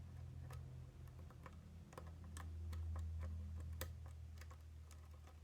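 Small, irregular metallic clicks of a lock pick working the wafers of a Miwa DS wafer lock, heard over a low steady hum.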